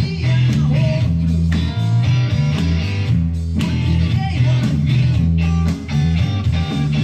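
Rock music playing, led by electric guitar over a steady bass line.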